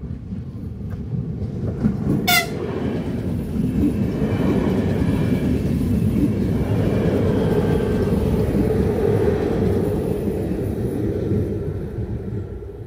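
Electric double-deck passenger train passing close by, its rumble building up, staying loud for several seconds and fading away near the end. A short horn toot sounds about two seconds in, as the train approaches.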